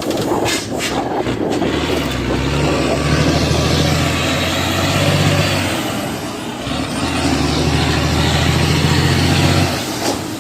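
Heavy diesel dump truck's engine pulling under load, its pitch rising, then dropping briefly about six seconds in as a gear is changed, pulling again, and letting off near the end.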